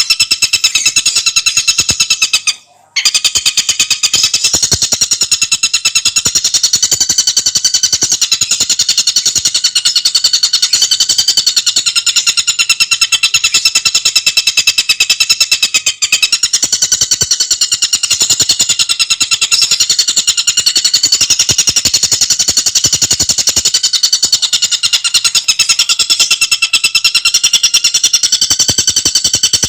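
Tengkek buto bird calling in one continuous, very fast trill of rapid ticking pulses, its high pitch wavering slightly, breaking off for a moment about three seconds in.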